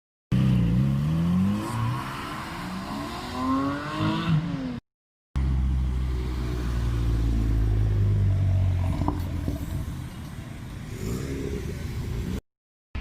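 Car engines revving hard, their pitch climbing and falling several times, then a car engine running steadily at low revs that eases off. The sound breaks off into short silences twice where the footage is cut.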